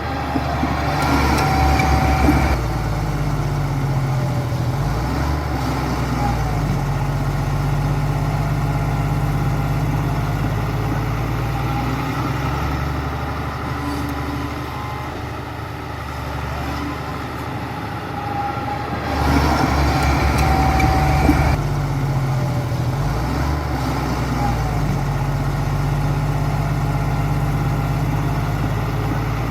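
Bulldozer's diesel engine running steadily, its pitch shifting as it works, with two louder surges of a couple of seconds each, as if revving under load.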